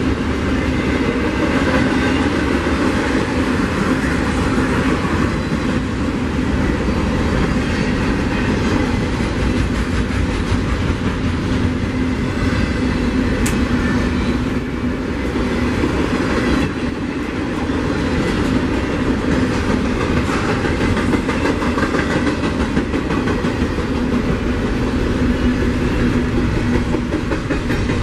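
A train rolling past at close range, a steady loud noise of wheels on rail with a steady low tone running underneath. There is a single sharp tick about halfway through.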